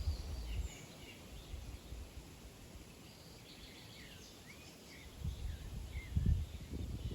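Several small birds chirping, with short calls that slide in pitch, scattered throughout. Low rumbling bumps come at the start and again in the last couple of seconds, the loudest of them about six seconds in.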